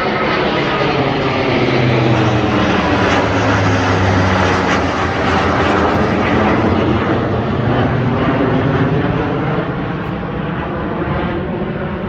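Eurofighter Typhoon fighter jets flying over: a loud, continuous jet roar with sweeping tones running through it. It is loudest a few seconds in and eases a little near the end.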